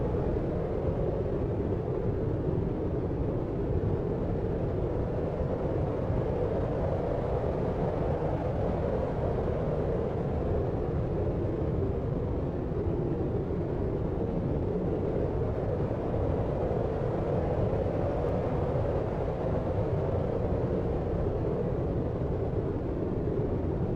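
Deep white noise for sleep: a steady, dark, low noise with little hiss and no changes.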